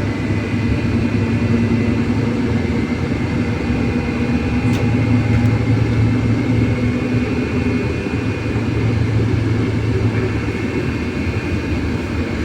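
Cabin noise of a MAZ-303E10 battery-electric bus under way: steady rumble with a constant hum and a thin high whine from the electric drive. There is a faint click about halfway through.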